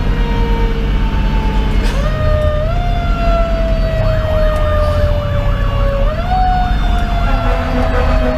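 Federal Q2B mechanical siren wailing, its pitch slowly winding down and twice brought back up, about two seconds in and about six seconds in. Underneath runs the steady low rumble of the engine's Detroit Series 60 diesel and the road.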